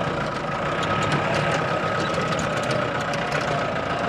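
Off-road jeep's engine running steadily, heard from inside the cabin, with a thin steady whine and many small rattles and clicks over it.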